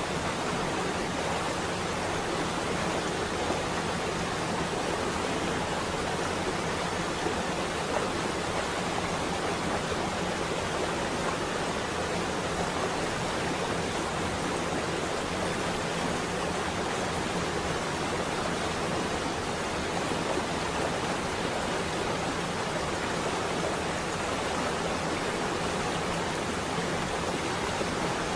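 Steady rain on a window, an even unbroken hiss with no thunder.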